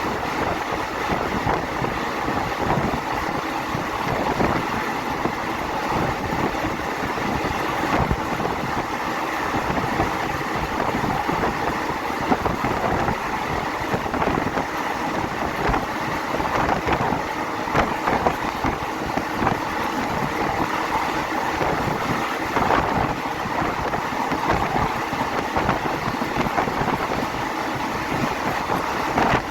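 Passenger train carriage running along the line: a steady rumble and rush of noise with frequent short knocks and rattles, and some wind on the microphone.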